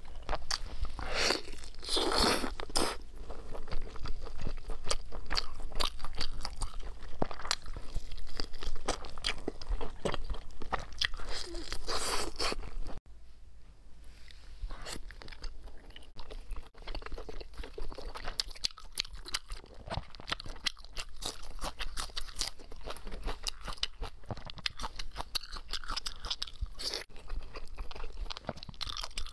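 Close-miked eating sounds: biting and chewing braised pork, with many short sharp clicks and smacks of the mouth. About 13 s in the sound cuts to quieter chewing of a soft, glossy braised roll.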